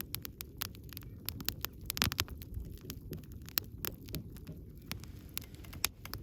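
Wood campfire burning: a steady low rumble of flames with irregular sharp crackles and pops from the burning logs, the loudest pop about two seconds in.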